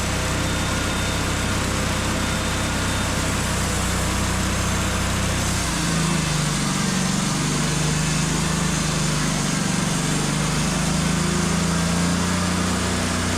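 Wood-Mizer LT35 band sawmill running under power, its engine and band blade making a steady, loud machine sound. About six seconds in, the engine note shifts and holds a new pitch, as when the blade takes load in the cut.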